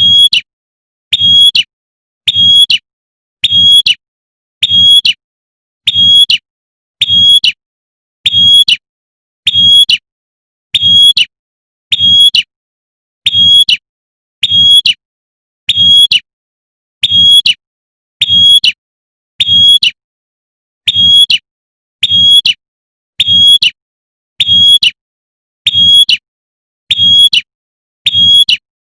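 Female prinia (prenjak) giving its sharp 'tembakan' call over and over, one short high note about every second in an even, unchanging rhythm: a looped lure call used to draw in males.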